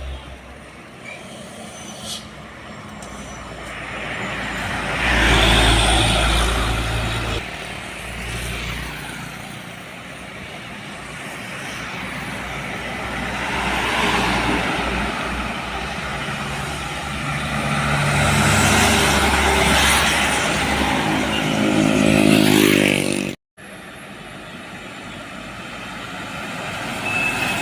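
Heavy trucks passing on a highway, engine and tyre noise swelling and fading with each pass, the loudest near the end with a rising engine note. It cuts off abruptly, then quieter traffic noise follows.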